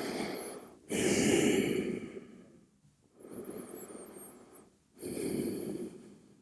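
A person breathing deeply and audibly into a close microphone, about four long breaths in and out with short pauses between them, the second the loudest: slow recovery breathing while resting in child's pose after a yoga flow.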